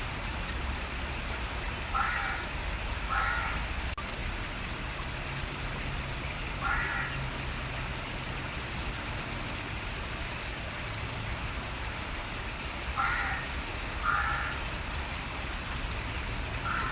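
A bird giving short calls every few seconds, some in pairs, over the steady rush of running water and a low steady rumble.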